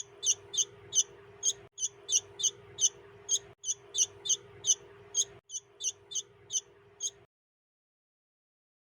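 A bulbul chick chirping repeatedly, short high calls about three a second, over a faint steady hum. The chirping comes in stretches that cut off abruptly, and stops a little after seven seconds.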